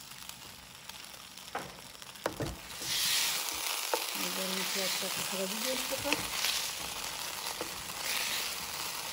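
Lamb pieces sizzling in sauce in a wok while being stirred with a wooden spatula. A few knocks of the spatula come in the first seconds, then the sizzling turns loud about three seconds in and carries on in surges as the meat is turned.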